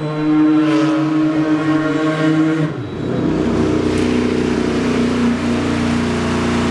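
Racing car engine held at high revs with a steady note. About three seconds in, the note drops to a lower, steady engine sound with more low rumble.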